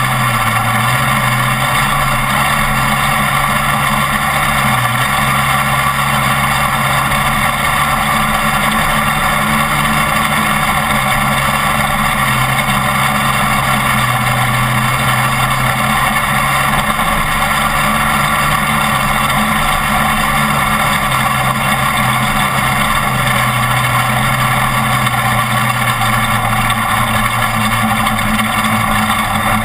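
Off-road race truck's engine running hard at speed, its note rising and dipping a little, over a steady rush of wind and road noise.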